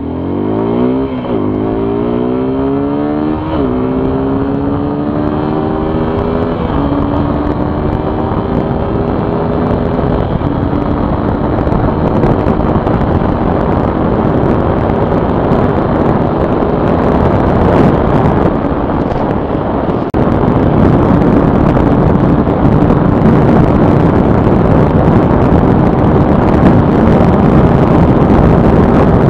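Suzuki Gixxer SF 250's single-cylinder engine accelerating hard under full throttle. It revs up and upshifts about four times in the first ten seconds or so, then holds near-steady high revs at speed. Wind rush on the microphone grows over the engine and gets louder about twenty seconds in.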